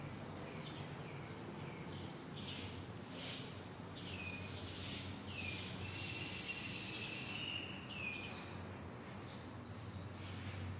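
Bird chirping: a run of short chirps that fall in pitch, with one longer held note in the middle, over a steady low electrical hum.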